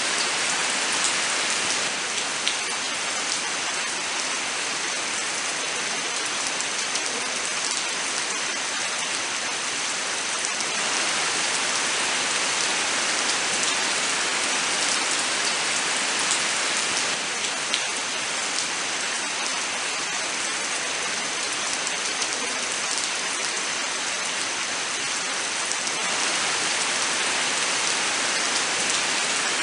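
Steady rain falling in a forest: an even hiss of rainfall with scattered sharp drop ticks.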